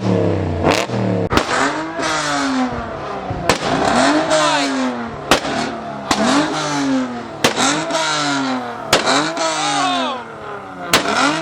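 Truck engine revved hard again and again, each rev climbing and falling back in pitch about every one and a half to two seconds, with a sharp crack at the start of several revs. It is really loud.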